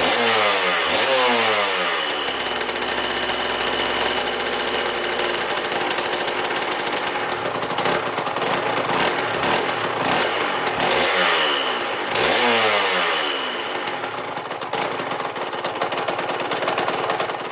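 Aprilia RS 125's Rotax 122 two-stroke single warming up after an engine rebuild. It is blipped up and down a few times at the start, settles to steady running, and is blipped again a few times past halfway.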